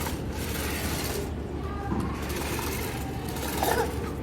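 Small electric motor of a toy car whirring steadily as the car runs on its own.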